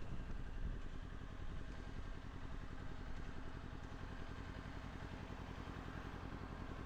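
Kawasaki Ninja 400's parallel-twin engine idling steadily with the motorcycle stopped.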